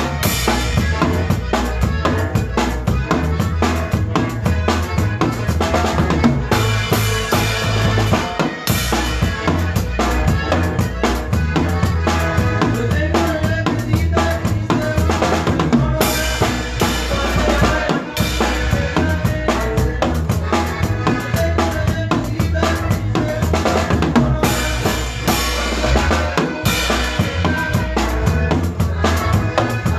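Live band playing a cumbia, the drum kit keeping a steady beat over a repeating bass line.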